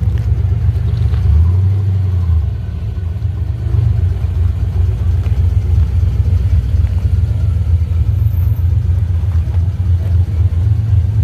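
Classic car's engine running close by, a low steady exhaust note with a brief change in its lowest tone about one and a half seconds in.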